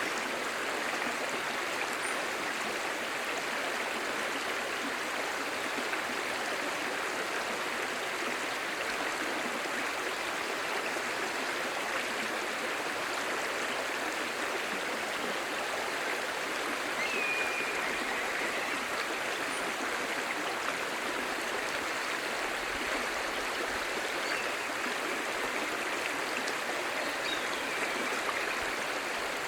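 Shallow, clear stream babbling steadily.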